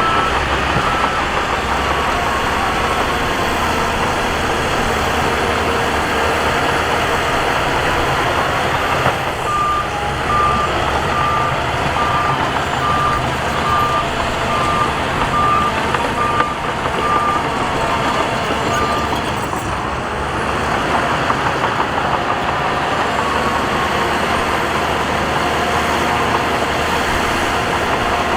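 Diesel engine of heavy earthmoving machinery running steadily. From about ten seconds in, for roughly nine seconds, a reversing alarm beeps at an even pace of a little more than one beep a second.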